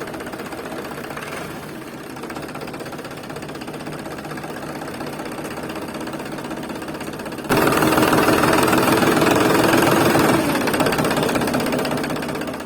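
A motor running steadily. It gets suddenly louder about halfway through, then fades out at the end.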